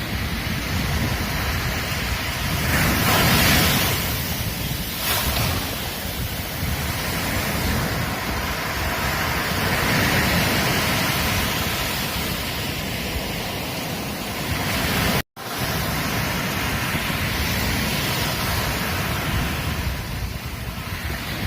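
Ocean waves breaking and washing up a beach in a steady surf, swelling loudest a few seconds in and again near the middle. The sound cuts out for an instant about three-quarters of the way through.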